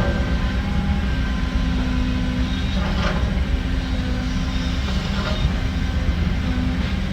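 Heavy diesel earthmoving machinery running steadily with a low engine drone, with a couple of light knocks about three and five seconds in.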